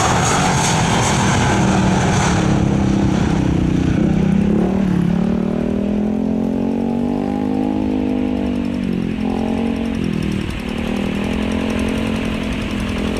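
Engine running with a loud, low drone that wavers up and down in pitch; a higher whine fades out in the first two seconds.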